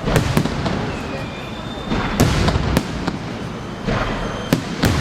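Aerial fireworks shells exploding in a series of sharp bangs, about seven in all, over a continuous crackling rumble of the display.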